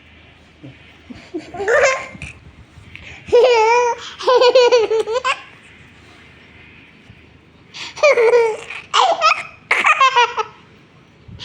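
A young child laughing in high-pitched bouts, coming in three spells: a short one about two seconds in, a longer one around the middle, and several quick bursts near the end.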